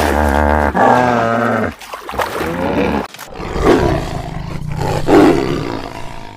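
A big cat roaring: one long, wavering roar, then several shorter roars.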